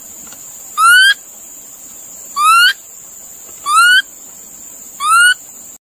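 A bird's short whistled call, rising in pitch, repeated four times about every second and a half over a steady high hiss.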